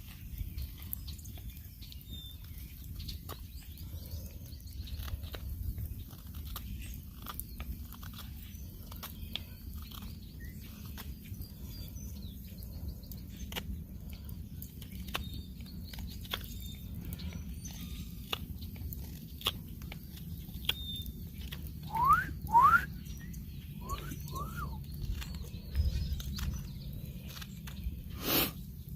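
Outdoor ambience with scattered small clicks and faint short bird chirps. About 22 seconds in come a few quick rising whistles, in pairs.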